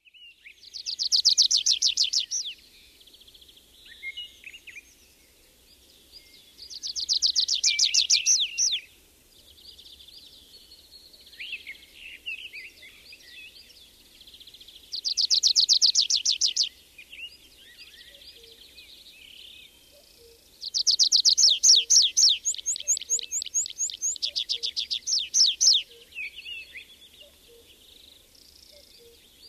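A songbird singing loud, fast trilled phrases of a couple of seconds each, repeated every few seconds, with a longer run of phrases near the end. Softer bird calls fill the gaps between phrases.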